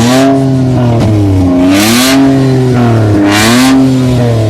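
Car engine revved repeatedly, its pitch rising to a roar and falling back about every second and a half, over a steady low running note.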